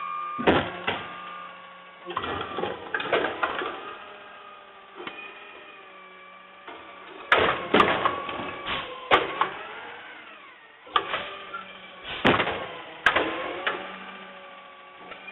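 Garbage truck at work: a whining, rising and falling mechanical tone with a steady low hum, broken by repeated sharp clanks and bangs.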